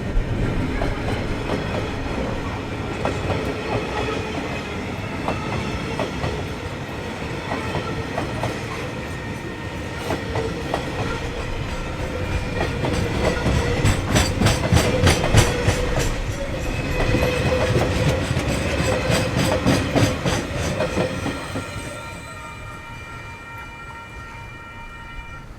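Freight train wagons rolling past, with steady ringing wheel tones and bursts of rapid clickety-clack as the wheels cross rail joints, loudest midway. The sound falls away near the end.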